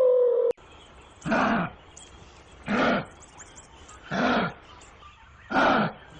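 An animal calling four times: short, rough, loud calls about a second and a half apart, with faint bird chirps behind. A falling tone from a different recording cuts off about half a second in.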